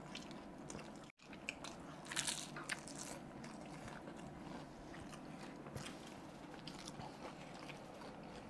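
Close-up biting and chewing of crisp fried samosa dipped in green chutney: soft scattered crunches, the loudest about two seconds in.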